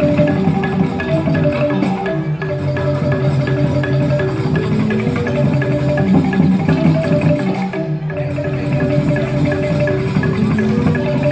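Balinese joged bumbung gamelan playing: bamboo xylophones (grantang) ringing out a busy run of short mallet-struck notes, with percussion under them.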